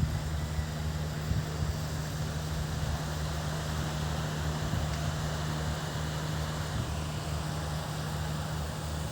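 Steady rushing of wind and sea along a shoreline, with a low, even hum underneath.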